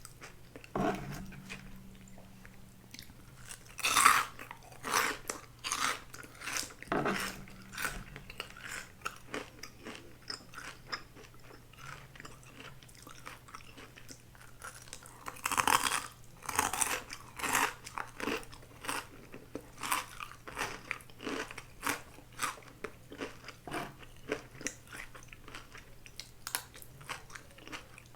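A person chewing and crunching food, a continuous run of wet clicks and crunches, with louder crunchy bites about four seconds in and again about sixteen seconds in.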